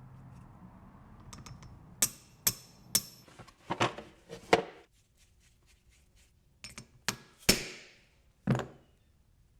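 A series of sharp knocks and clunks, about ten in all, in two clusters with a short pause between.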